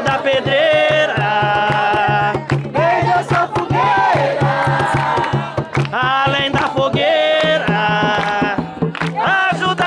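Jongo music: voices singing a chant over fast, steady hand-drum beats.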